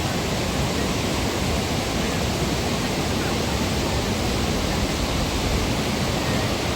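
Athirappilly Falls in monsoon spate: a steady, dense rush of falling water with no letup.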